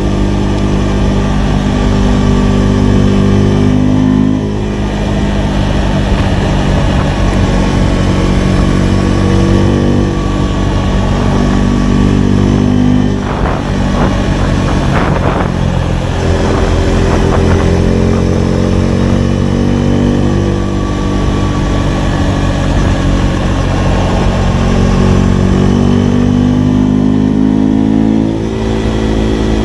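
Husqvarna Svartpilen 401's single-cylinder engine through a LeoVince LV-10 exhaust, under way. Its pitch climbs steadily under throttle and drops briefly at each gear change, about four times, with a rougher, choppy stretch near the middle.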